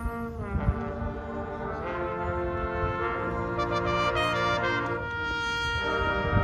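High school marching band playing: brass holding sustained chords that shift every second or so, with drum hits near the start and again at the end.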